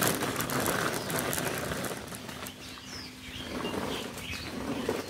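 Small birds give a few short, high chirps in the second half. Under them runs a rattling, clattering noise that is loudest in the first two seconds and then eases off.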